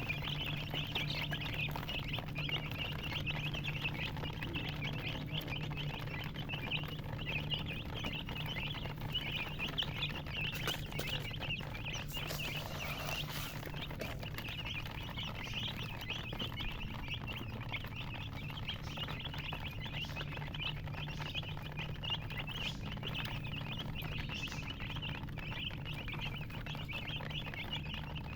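A brood of baby chicks peeping continuously, many high-pitched chirps overlapping, over a steady low hum.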